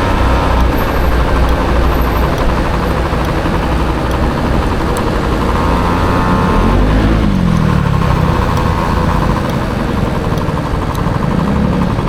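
Honda Motocompo's swapped-in Dio scooter engine running in city traffic, with a steady low rumble and a buzzing whine. About halfway through, an engine's pitch rises and then falls.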